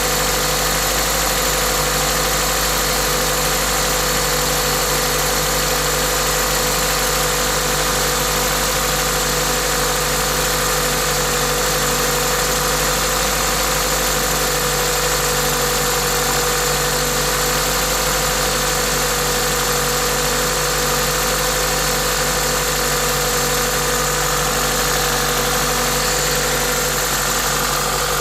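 Toyota 2ZZ-GE 1.8-litre four-cylinder engine idling steadily, with a hiss from its aftermarket induction kit over the engine note. This is the engine's normal running noise.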